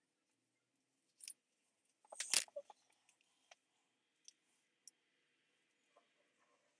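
Close handling noise: a short rustle about a second in, then a louder cluster of crackling clicks about two seconds in, followed by a few faint ticks.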